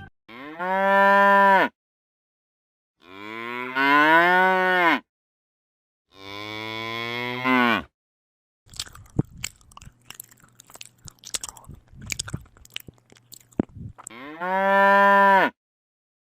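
Four long, drawn-out animal calls, each rising and then falling in pitch, like a cow mooing. Between the third and fourth calls comes a run of irregular crunching clicks, like chewing.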